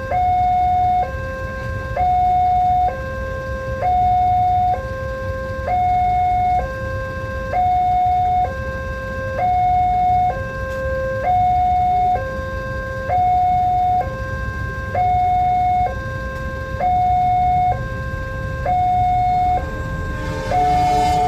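Railway level-crossing warning alarm sounding its two-tone electronic signal, a higher and a lower note alternating about once a second, over a steady low rumble. Near the end a broader noise comes in.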